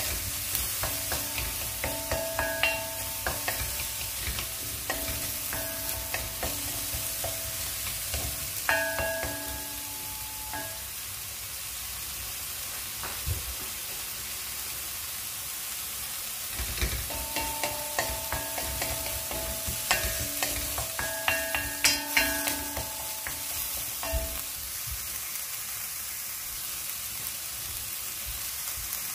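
Diced onion and garlic sizzling in a little oil in a stainless steel wok, lightly browning, while a wooden spoon stirs and knocks against the pan, each knock ringing briefly. The stirring stops for a few seconds about halfway through and again near the end while the sizzle goes on.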